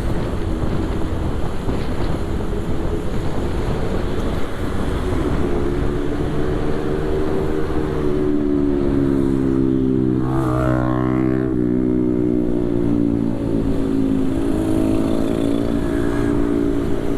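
Motorcycle riding in traffic: the engine's steady note rises and falls a few times as speed changes, over road and wind rush, with a brief rising whine about ten seconds in.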